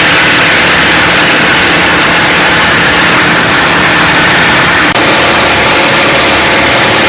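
Nanchang CJ-6 trainers' nine-cylinder radial engines running, loud and steady under a heavy hiss.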